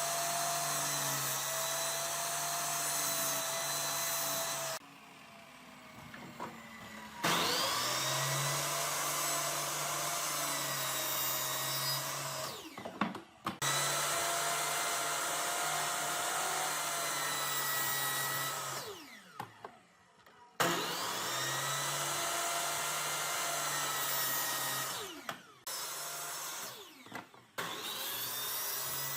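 Electric power tool motor whining, switched on and off several times: it rises up to speed at each start and winds down after each stop, with quieter gaps between runs.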